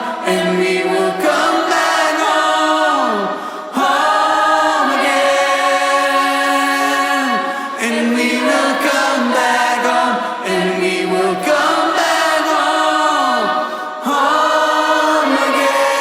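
Music: a group of voices singing together in harmony, long held notes in phrases of a few seconds, each phrase ending with a falling slide in pitch.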